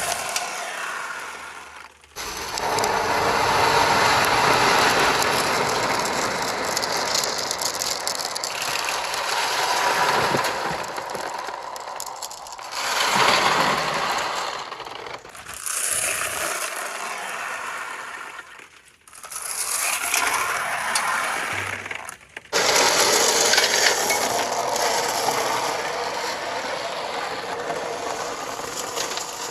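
Many marbles rolling and clattering through a water marble run of PVC pipe and plastic rain gutters, a dense continuous rattle. It drops away briefly three or four times and then picks up again.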